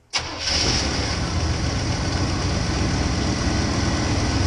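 A truck engine comes in abruptly just after the start and settles into a steady idle, with a hiss over the low engine note.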